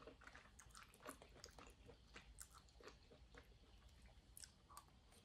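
Faint chewing of a mouthful of pasta: a scatter of soft, irregular mouth clicks.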